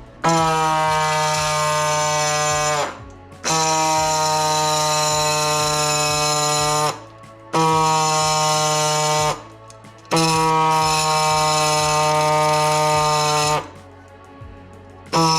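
Handheld power tool motor run in four bursts of about two to three seconds each with short pauses between, a steady whine whose pitch sags slightly as each burst is released.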